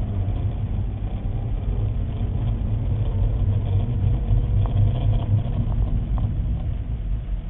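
Car engine running with road rumble, a steady low drone, with a few faint clicks about five seconds in.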